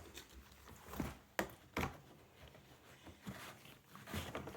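About five scattered light clicks and knocks of a Henry vacuum cleaner's plastic parts being handled and fitted back together, with the motor switched off.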